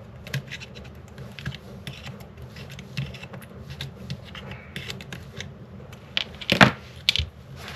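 Light, irregular clicks and scrapes of small microphone parts being handled and worked loose during disassembly, with a louder knock about six and a half seconds in and another soon after.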